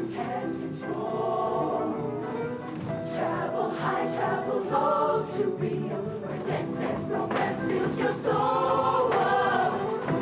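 Mixed show choir singing a full-voiced, up-tempo number with band accompaniment.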